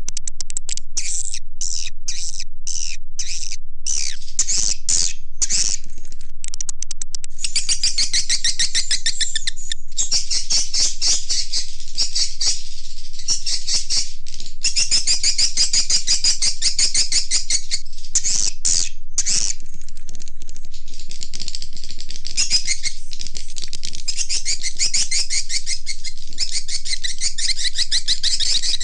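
Recorded swiftlet calls of the kind played as a lure to draw swiftlets into a nesting house: high, fast twittering chirps. They come as separate chirps several times a second for the first several seconds, then run into dense, rapid trills with a few brief breaks.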